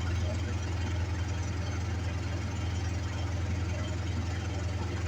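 A steady low mechanical hum with a faint noisy haze over it, unchanging throughout.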